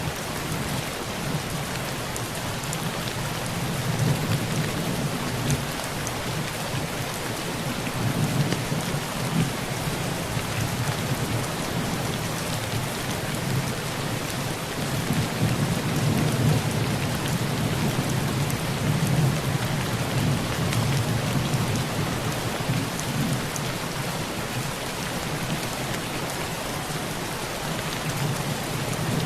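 Heavy rain falling steadily on a tin roof, with low rolling thunder rumbles that swell and fade several times.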